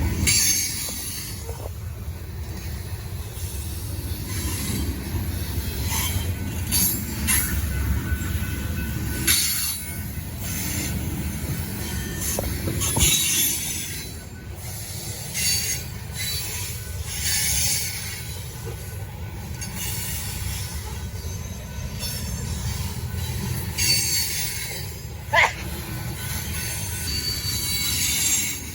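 Freight train cars rolling past, with a steady low rumble and repeated high-pitched wheel squeals. One short, sharp squeal stands out near the end.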